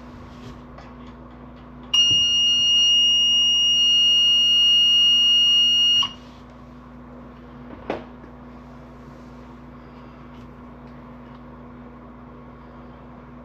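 Water-leak detection module's built-in piezo alarm sounding one steady, high-pitched beep for about four seconds, then cutting off: the controller signalling that its sensor has detected water. A short click follows a couple of seconds later.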